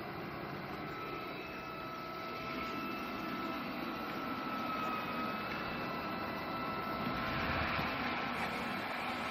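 eufy Omni C20 robot vacuum running, a steady whirring hum with a faint high whine; it gets louder and brighter about seven seconds in.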